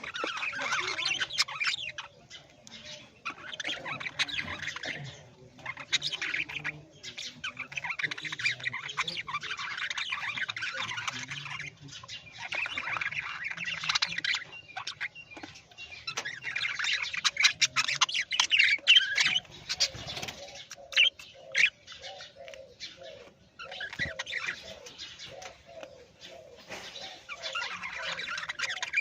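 Parrots chattering and squawking in repeated bursts of a second or two, with short pauses between.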